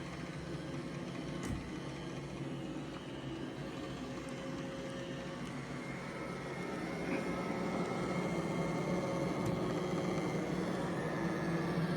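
iRobot Roomba j7+ robot vacuum running on a carpet rug: a steady motor and brush hum that grows louder about seven seconds in, with a light click near the start.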